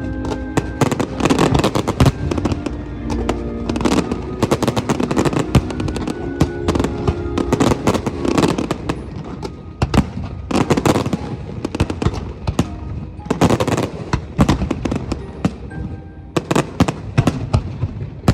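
Fireworks going off in rapid, continuous succession, sharp bangs and crackles overlapping one another, with music playing underneath through the first half.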